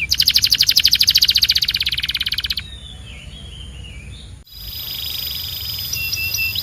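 Canary singing: a loud, rapid trill of about twenty notes a second for the first two and a half seconds, then quieter notes. After an abrupt break a little past halfway, a softer rolling trill follows with a steady high whistle.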